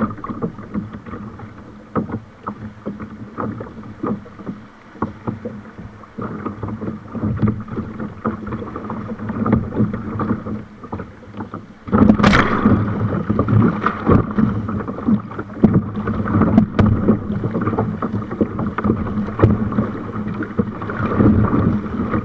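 Kayaking on a river: water splashing and rushing around the kayak, with frequent short knocks. It gets markedly louder about halfway through.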